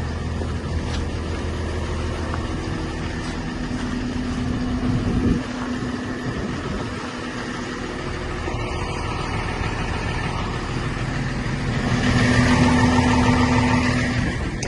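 A motor vehicle engine running steadily with a low hum, swelling louder for a couple of seconds near the end.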